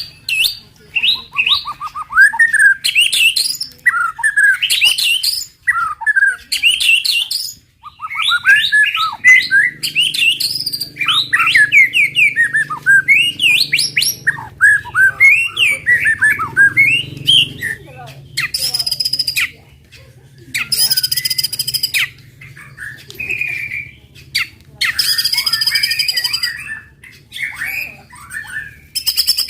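White-rumped shama (murai batu) singing loudly in rapid, varied whistled phrases. About two-thirds of the way through, the song turns to harsh, buzzy bursts of 'tembakan' fighting song, the kind used to provoke other shamas into singing.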